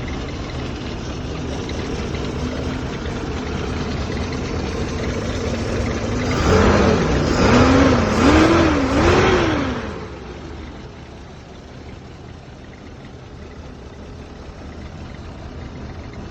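Toyota FJ43 Land Cruiser's engine idling steadily, then revved up and back down three times in quick succession about halfway through before settling to a quieter idle.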